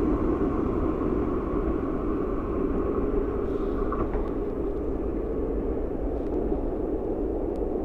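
Renfe Cercanías electric commuter train pulling away from the station, a steady rumble of wheels on rails that slowly fades as it recedes.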